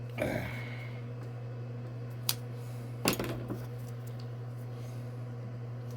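Small plastic and metal parts being handled while a fuel line, inline shut-off valve and hose clamp are fitted: a few light clicks and knocks over a steady low hum.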